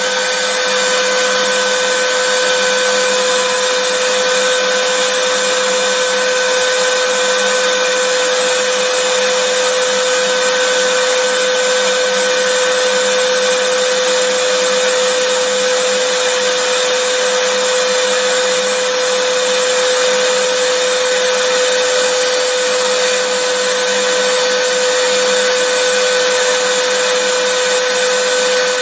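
Vacuum cleaner running steadily: an even rush of air with a constant motor whine, unchanging throughout.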